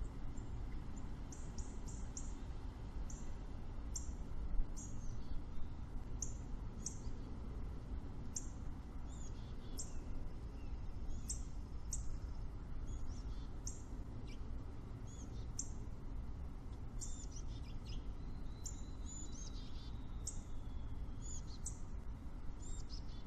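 Small songbirds chirping: many short, high chirps scattered throughout, with a longer, lower warbling phrase toward the end, over a steady low rumble.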